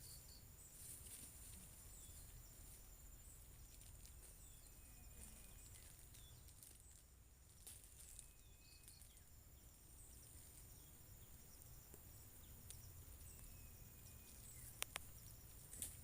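Faint forest night-chorus: crickets keep up a steady high trill while a bird repeats short whistled notes every few seconds. Two sharp clicks sound near the end.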